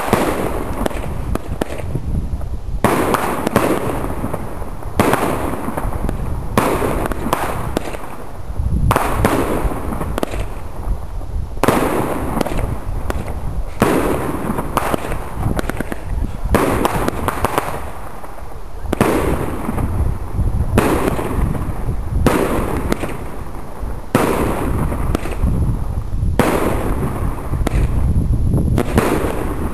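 A string of fireworks going off, a sharp bang every one to three seconds, each followed by a long echoing rumble that fades before the next.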